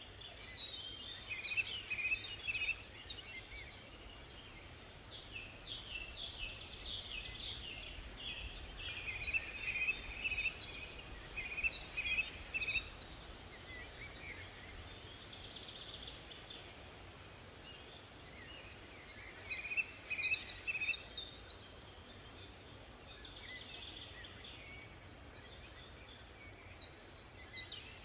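Songbirds singing in a forest: quick runs of short, high chirping notes that come in three main bouts, over a steady background hiss.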